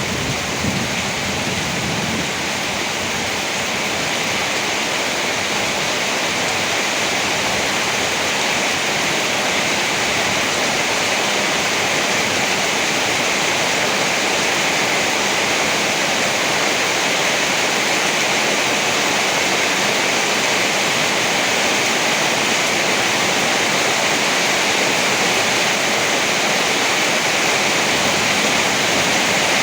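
Heavy rain falling as a steady, even hiss, with a low rumble of thunder dying away in the first two seconds.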